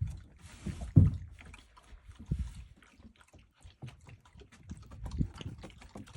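Baby goat's small hooves thumping and clicking as it moves about: a few irregular soft thumps, the loudest about a second in.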